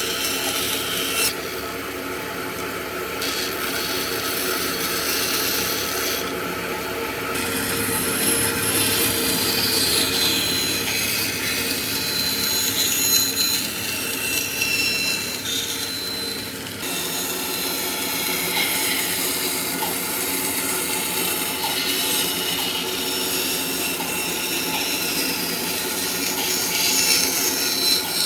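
Power tools working wood: a steady motor hum under a rasping, abrasive grind. The high rasp cuts out abruptly a couple of times and the sound changes again partway through.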